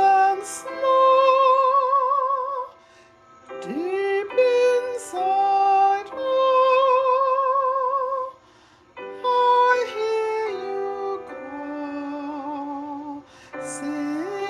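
Woman singing a slow, hymn-like solo song, holding long notes with a clear vibrato. She sings in phrases, with two short pauses for breath: one about three seconds in, one about eight seconds in.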